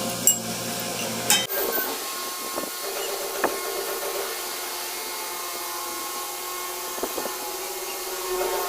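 A machine running steadily with a hiss and a faint hum, with a few sharp clicks now and then.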